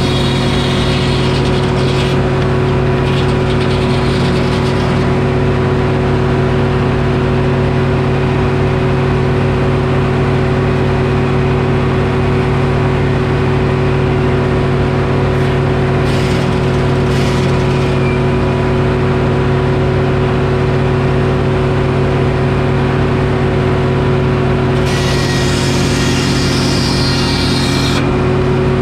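Detroit Diesel engine running steadily to power a Frick sawmill, with a brief rise of higher-pitched noise near the end.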